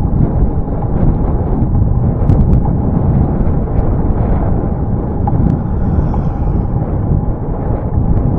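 Wind buffeting the microphone of a camera on a moving bicycle: a loud, steady rumble with a few faint clicks.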